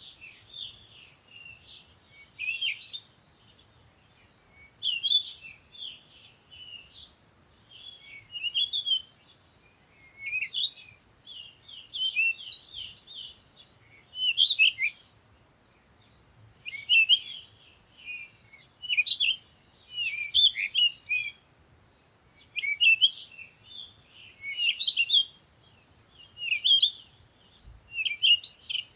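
Songbirds chirping and twittering in quick phrases of a second or two, one after another with short pauses between.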